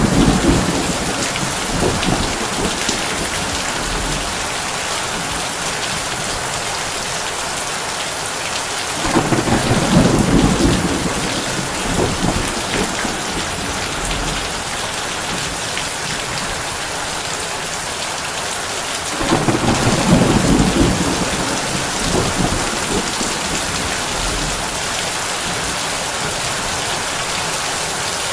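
Heavy rain falling steadily on a tin roof, with low rolling thunder. A rumble fades out at the start, and two more swell up and die away about nine and nineteen seconds in.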